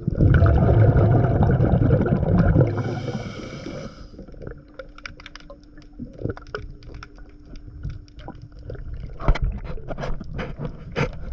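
Scuba diver breathing through a regulator underwater: a loud bubbling rush of exhaled air for about two and a half seconds, then a short hiss of an inhale. After that, scattered sharp underwater clicks and crackles over a faint steady hum.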